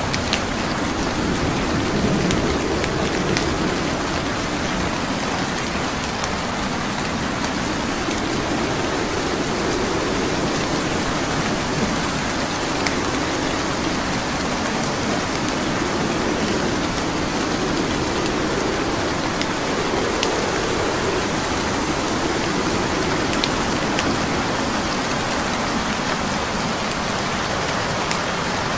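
Steady rain with scattered faint crackles and pops from burning wood logs. Underneath, a low rumble swells and fades every few seconds.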